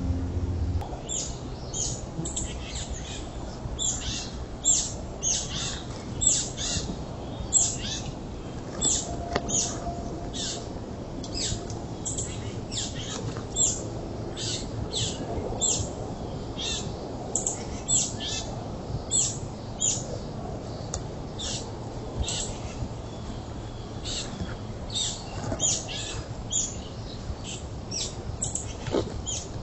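Birds calling: a steady string of short, high chips, each sweeping downward, about two a second, over a low background rumble.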